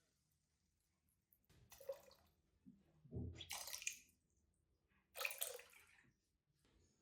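Water splashing and sloshing in three short bursts as something is moved in a water bath, with a low knock about three seconds in.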